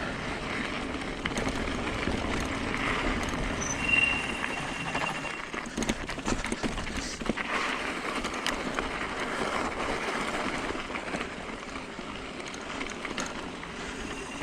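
Hyper 29er e-bike rolling downhill over a rough dirt and gravel trail. The tyres make a steady rough noise and the bike rattles with scattered clicks and knocks, and there is a brief high squeak about four seconds in.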